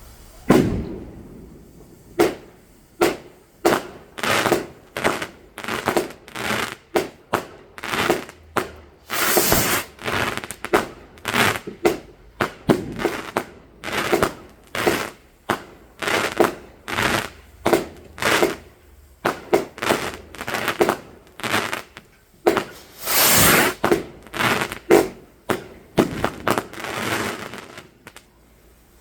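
Fireworks going off in a long string of sharp bangs, about one or two a second, with two longer crackling bursts about ten and twenty-three seconds in.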